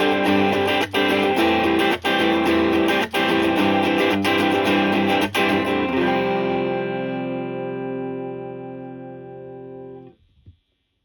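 Electric guitar played through a Suhr Shiba Drive Reloaded, a Tube Screamer-style overdrive pedal, with a mid-heavy, mellow overdriven tone. Chords are struck about once a second, then a last chord about six seconds in is left ringing and fading, and it cuts off to silence about ten seconds in.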